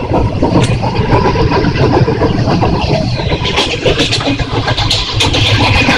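Passenger train running along the track, heard from inside the carriage: a loud, steady rumble of wheels on rail with scattered sharp clicks.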